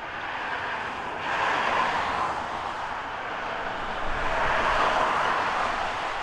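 Freeway traffic passing, a steady rush of tyres and engines with two vehicles swishing by louder, about a second in and again about four seconds in.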